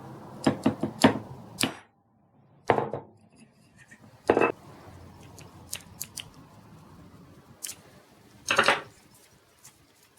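Irregular sharp clicks and knocks of tools and metal parts being handled, a quick cluster in the first two seconds, scattered single knocks after, and a short rattle near the end.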